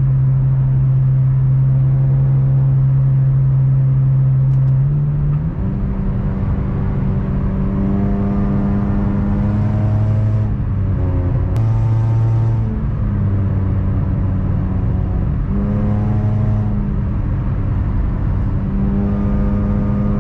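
2004 Honda Civic EM2's 1.7-litre four-cylinder engine droning steadily with road noise, heard from inside the cabin at highway speed. Its pitch steps up about five seconds in, then rises and falls slightly a few times as the speed changes.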